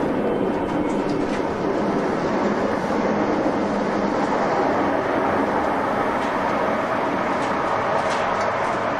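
Moving passenger train heard from inside the carriage: a steady rolling rumble of wheels and running gear with a few faint high ticks.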